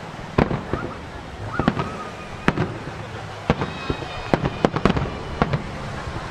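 Aerial firework shells of a starmine barrage bursting over the sea: about a dozen sharp booms at uneven spacing, crowding closer together in the second half.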